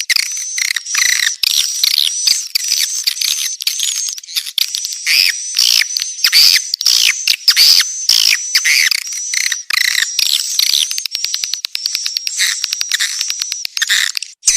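Edible-nest swiftlets twittering in a dense, continuous stream of high chirps, with a run of rapid clicks about three-quarters of the way through. This is a clean recording with no low background noise, of the kind played as a lure call to draw swiftlets into a nesting house.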